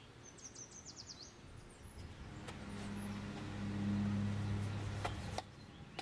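Outdoor ambience: a small bird gives a quick run of high chirps, then a steady low engine-like hum swells in and cuts off abruptly near the end.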